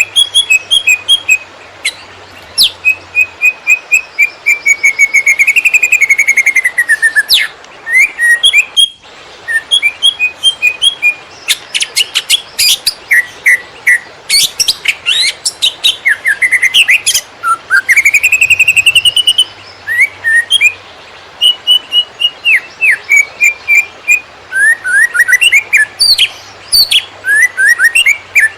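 Green leafbird (cucak ijo) singing a loud, fast and varied song of rapid chirp series, trills and rising and falling whistled glides, almost without a break. This is the dense, rapid-fire 'konslet' singing style used as a master song for training birds.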